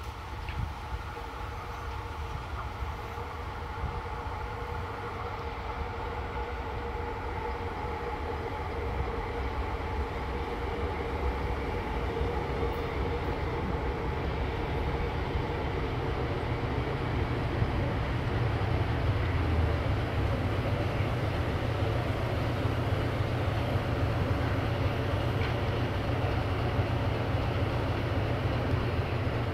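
Diesel locomotive hauling a passenger train approaching, its engine drone and low rumble growing steadily louder as it nears.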